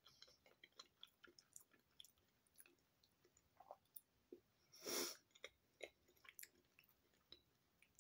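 Faint chewing of a mouthful of battered, deep-fried corn dog, with scattered small mouth clicks and one short louder rush of noise about five seconds in.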